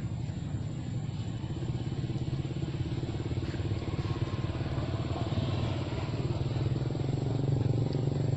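An engine running steadily with a low hum, growing louder over the last few seconds.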